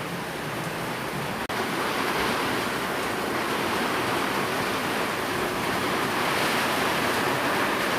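Steady heavy rain falling, an even hiss with no distinct drops, cut by a very brief dropout about a second and a half in.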